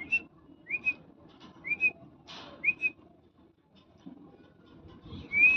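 A parrot whistling: four short rising whistle notes about a second apart, then a longer whistle near the end that dips and climbs again.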